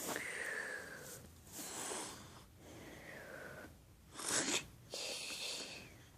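A girl's noisy pretend-sleep breathing: about five loud, breathy in-and-out breaths, the loudest about four seconds in.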